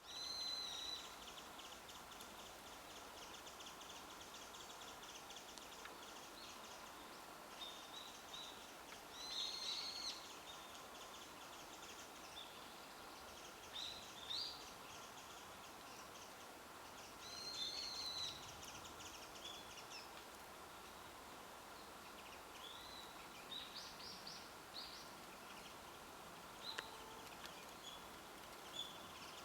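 Wild birds singing: one bird repeats a short, high song phrase about every eight or nine seconds, with scattered short chirps from other birds in between, over a faint steady background hiss.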